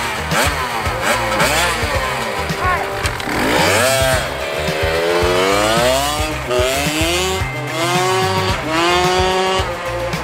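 Freshly serviced dirt bike engine revving up and accelerating, its pitch climbing and dropping back several times as it shifts through the gears, over background music.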